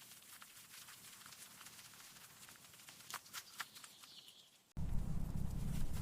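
Scratching and scrabbling in soil, like small paws digging: faint scattered clicks at first, then about three-quarters in a much louder, denser crackling rumble starts suddenly.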